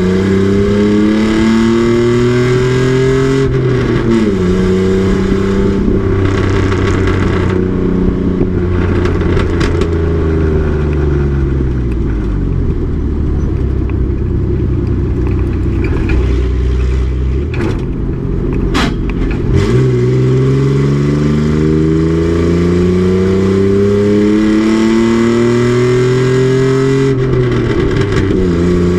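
Race truck's engine running hard on track. The revs climb and drop back at an upshift about three seconds in, rise again, then fall away for several seconds as it slows. After a brief sharp click the revs climb once more through another upshift near the end.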